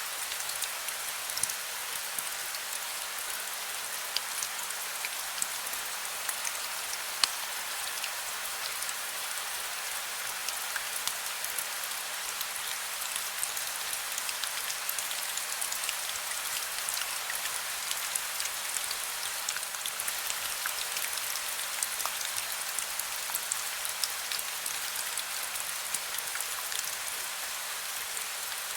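Steady heavy rain with many close drops ticking sharply on a surface.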